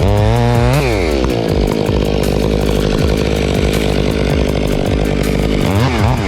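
Two-stroke chainsaw revving up and cutting into wood: its pitch rises about a second in, then holds lower and rougher under load through the cut, and swings up and down again near the end as the revs change.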